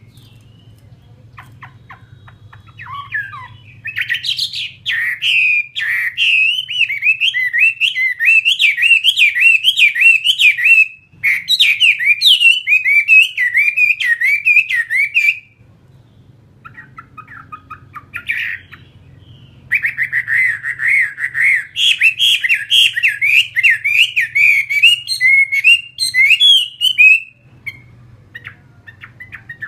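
Chinese hwamei (họa mi) singing loudly in long runs of rapid, rising and falling repeated notes. There are two long bouts with a pause of a few seconds between them.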